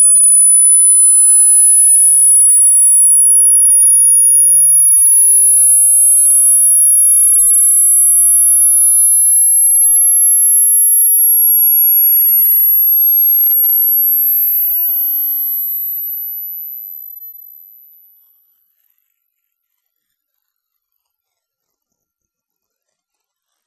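A loud, very high-pitched pure electronic sine tone held at a steady level and climbing slowly in small steps from about 10 kHz to about 13 kHz, cutting off suddenly at the end.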